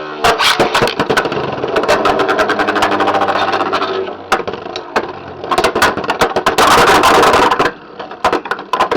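Beyblade X spinning tops battling in a plastic stadium: rapid clacking hits over a steady whirr. Near the end comes a louder stretch of scraping and grinding.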